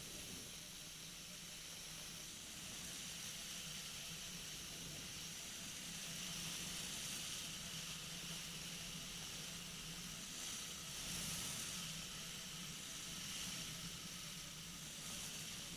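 Steady hiss of airflow and engine noise in flight aboard a weight-shift microlight trike, with a low, even drone underneath.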